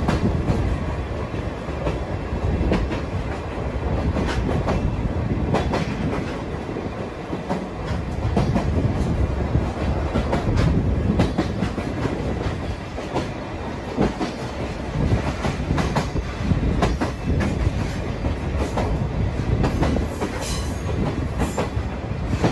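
Sagano scenic trolley train running along the track, heard from on board: a steady rumble from the carriages, with frequent irregular clacks of the wheels over the rail joints.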